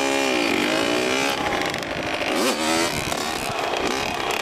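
Dirt bike engine running, its pitch falling and rising several times as the throttle is rolled off and on at low revs.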